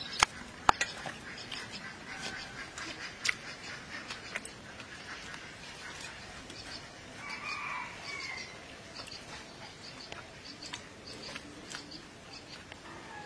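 Small birds chirping over and over, with a louder bird call about seven seconds in and a few sharp clicks near the start.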